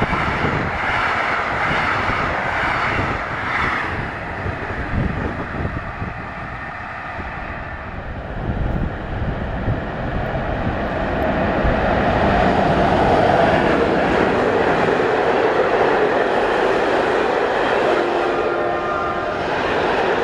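Passenger coaches running past with their wheels clicking rhythmically over the rail joints, dying away after about four seconds. Then a freight train of open wagons approaches and passes close, its wheels and wagons making a loud, steady rumble, with a brief tone near the end.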